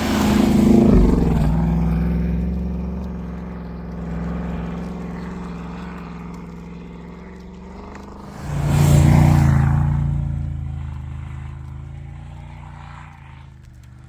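Off-road 4x4 engine revving under load twice, about eight seconds apart, each surge easing off slowly.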